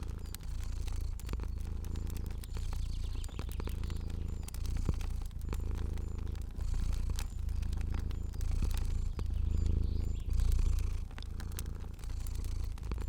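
Domestic cat purring steadily in low swells about once a second, with the sharp pops and clicks of a crackling fire scattered over it.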